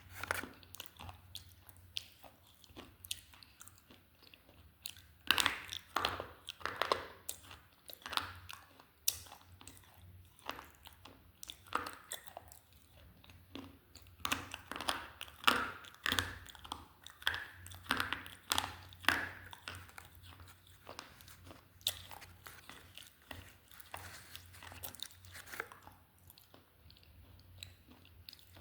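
Slate pencil being bitten and chewed: an irregular run of hard, brittle crunches, thickest in the middle and thinning out toward the end.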